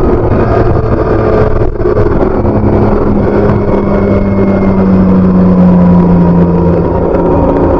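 BMW K1600B's inline six-cylinder engine running through its stock exhaust while riding. The sound drops briefly about a second and a half in, then holds a steady note that grows a little louder past the middle.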